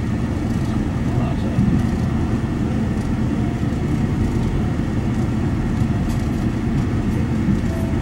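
Steady low rumble of a passenger train car running at speed, heard from inside the car: wheels on the rails and the car's running noise.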